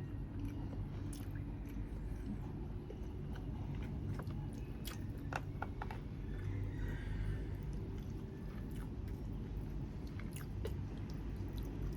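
Close-miked chewing and biting while eating Thai grilled chicken, with scattered wet mouth clicks and small crunches over a low steady hum.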